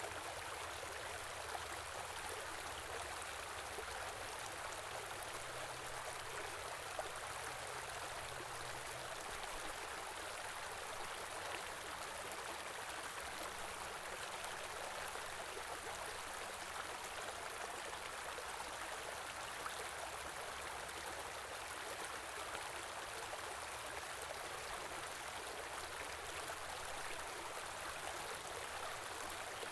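A shallow stream running steadily: continuous rushing and trickling water with no change in flow.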